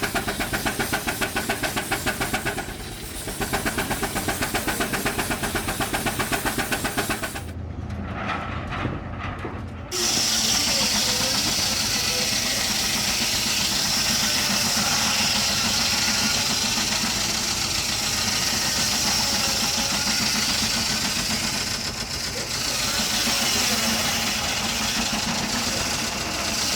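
An engine running with a fast, even beat for several seconds. About ten seconds in the sound changes abruptly to a steady, loud hiss of escaping steam.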